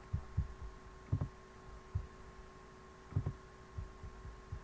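Irregular soft low thumps, several in quick pairs, about ten in all, over a steady electrical hum.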